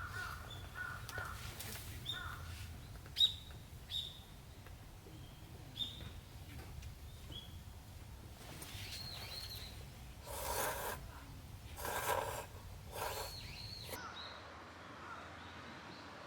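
Wild birds calling: short high chirps through the first half, then three louder, harsher calls about a second apart. A low steady rumble underneath cuts off near the end.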